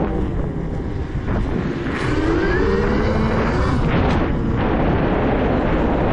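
Electric dirt bike riding: the motor's whine rises and falls in pitch several times as it speeds up and eases off, over a heavy low rumble.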